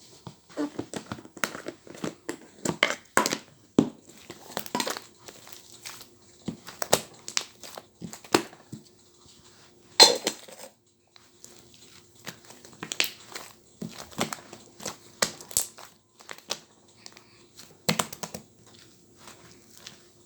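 Slime being squished and pressed by hand, giving irregular crackling and popping clicks, with one louder pop about ten seconds in.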